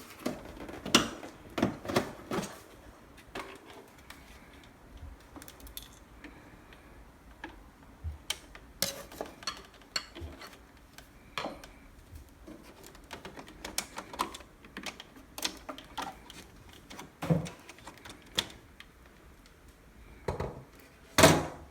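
Irregular small metallic clicks, taps and a few louder knocks as screws are undone from the espresso machine's casing with a screwdriver and the parts are handled.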